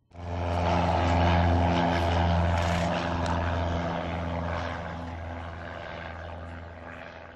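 Single-engine Cessna 172 piston engine and propeller running loud and steady, cutting in suddenly and then slowly fading away.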